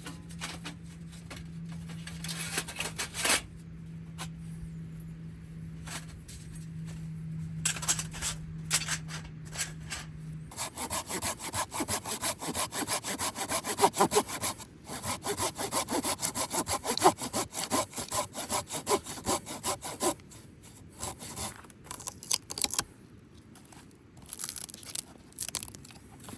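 Hand saw cutting driftwood: a few short strokes at first, then fast, even back-and-forth sawing for about ten seconds, and a few last strokes near the end. A low steady hum runs under the first part.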